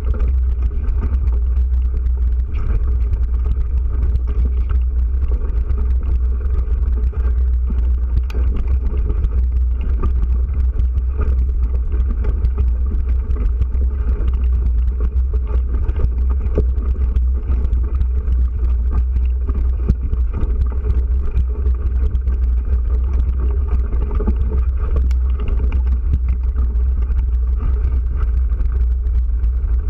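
Wind rumbling on the microphone of a camera carried on a moving bike: a loud, steady low rumble with road and riding noise over it.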